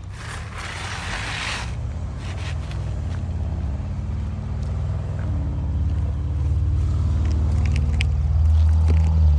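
A low engine rumble from a nearby motor vehicle, growing steadily louder. A brief scraping noise comes about half a second in.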